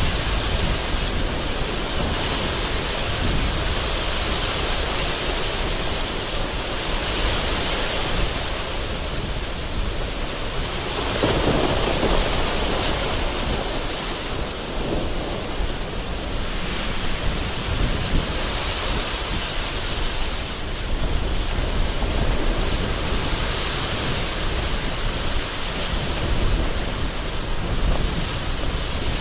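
Heavy rain with strong, gusting wind surging and easing every few seconds, and thunder rumbling in the background.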